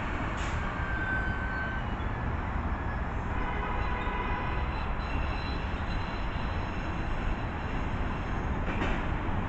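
An MBTA train running on the tracks with a steady rumble, with a few faint, brief high-pitched squeals from the wheels.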